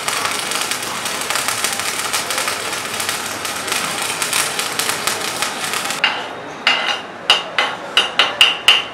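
A continuous rough, rasping metalworking noise. It breaks off about six seconds in, and then come about seven sharp hammer blows on metal in quick succession, each ringing briefly.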